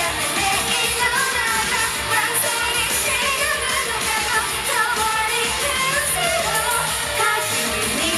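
Live pop song with female singing over a fast, steady drum beat and backing track, heard through the venue's PA.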